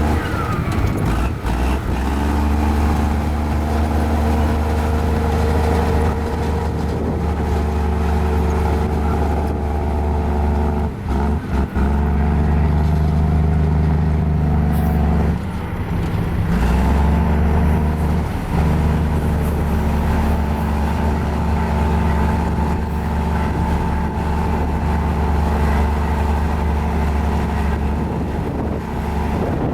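Mini Komatsu bulldozer's diesel engine running steadily while working, its note and level dipping briefly a few times in the middle.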